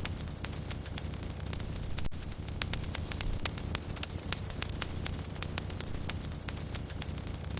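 Wood fire crackling in a fireplace: many sharp, irregular pops and snaps over a low, steady rumble of burning.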